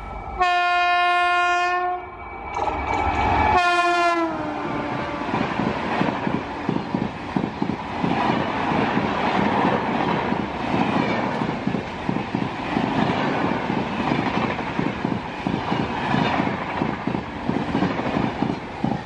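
Horn of a WAP-7 electric locomotive passing at speed: one long blast, then a short second blast whose pitch drops as the locomotive goes by. The express train's coaches then rush past with a steady rumble and rapid wheel clatter over the rail joints.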